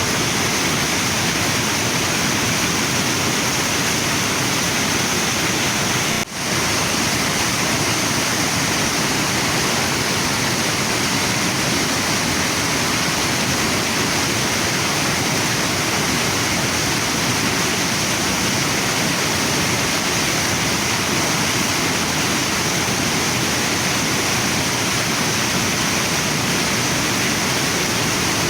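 Waterfall and river water rushing in a steady, unbroken hiss, with a momentary drop in level about six seconds in.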